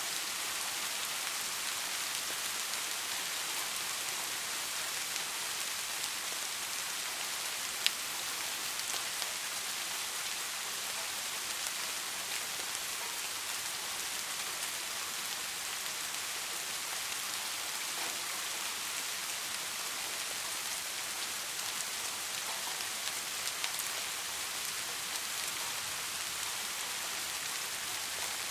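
Steady rain falling, an even hiss with scattered individual drops ticking, and one sharper drop about eight seconds in.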